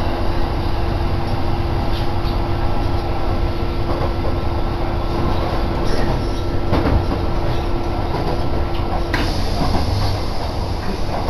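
Kintetsu Nagoya Line electric train running, heard from inside the passenger car: a steady rumble of wheels on rail with a few faint clicks. A steady hum runs along with it and cuts off about nine seconds in.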